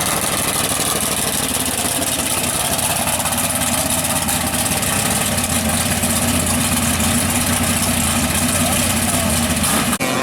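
Large V8 mega mud truck engine idling steadily, a deep even rumble that breaks off abruptly near the end.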